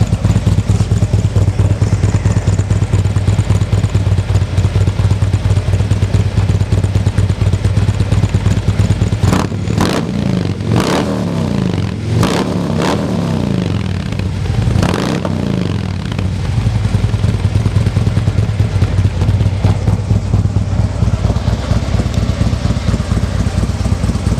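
A 2015 Harley-Davidson Ultra Limited's Twin Cam 103 V-twin runs through aftermarket Vance & Hines Oversized 450 slip-on mufflers and Jackpot head pipes with no catalytic converter. It idles steadily, and about halfway through the throttle is blipped several times in quick succession before it drops back to idle.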